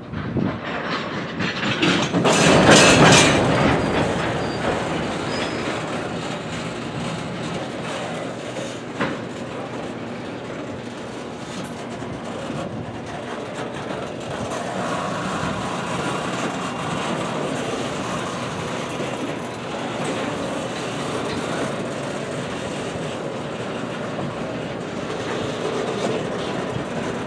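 Freight train's boxcars rolling through a road crossing: a steady rumble with the wheels clicking over the rails. There is a loud stretch of clanking about two to three seconds in.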